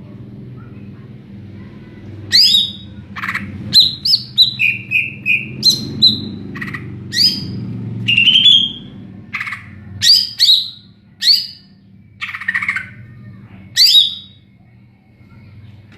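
Greater green leafbird (cucak ijo) singing loud, varied phrases of sharp whistled notes, many sweeping steeply down in pitch, with a quick run of three short notes in the middle. It starts about two seconds in and breaks off near the end, over a low steady hum.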